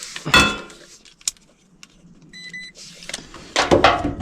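Handling clatter and rustle of tools and meter leads, loudest near the start and again near the end. A digital multimeter gives one short high beep a little past halfway, as it is set up to test a capacitor.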